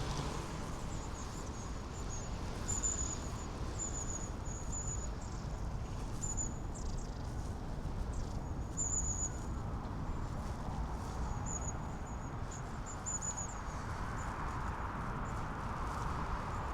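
Short strings of very high, thin chirping calls come and go several times over a steady low outdoor rumble.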